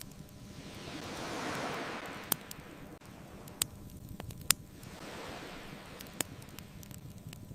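Ocean waves washing ashore: one swells up and fades away over the first three seconds, and a softer one follows. Over them a wood bonfire crackles with a few sharp pops, the loudest a little past halfway.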